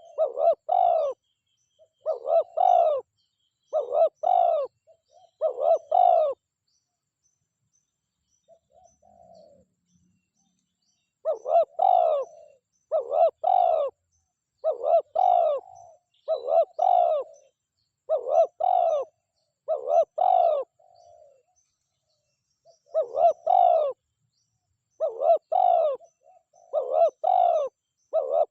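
Spotted dove cooing over and over in short phrases of two or three notes. Near the middle there is a pause of several seconds, broken only by a few soft low notes, before the phrases start again.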